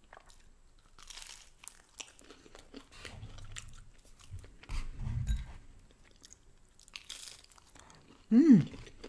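Crisp crunching and chewing of Domino's thin-crust pizza close to the microphone. A short hummed "mm" of enjoyment comes near the end.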